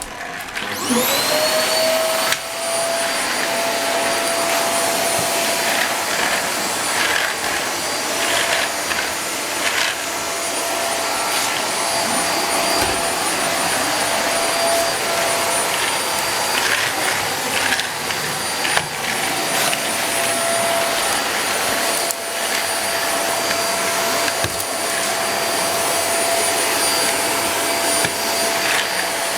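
A household vacuum cleaner is switched on. Its motor spins up with a rising whine in the first second, then runs steadily with a high whine over a loud rush of air. A few brief rattles sound over the top as it works.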